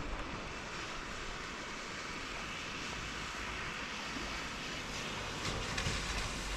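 Steady hiss of rain falling, with low wind rumble on the microphone.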